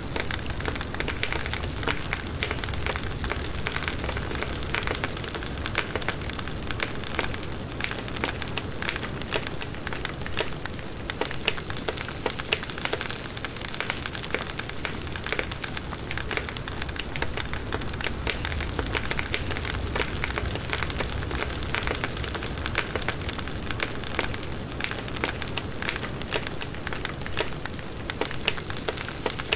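Firewood burning in a campfire: a steady hiss with frequent small crackles and pops from the burning wood.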